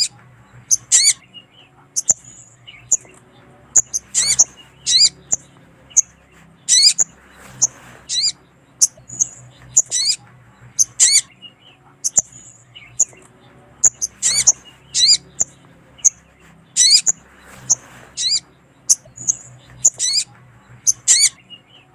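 Sogon (little spiderhunter) calls: sharp, high chirps and short rapid chatters, the same sequence repeating about every ten seconds. This is a looped female sogon call used as a lure to draw in and stimulate male sogon.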